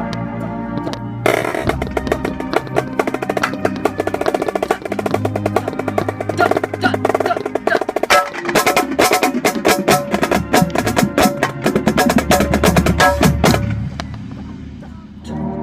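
Marching snare drum played close to the microphone: a dense run of rapid strokes and rolls that starts about a second in and stops near the end. Sustained band chords sound before the drumming starts and again as it stops.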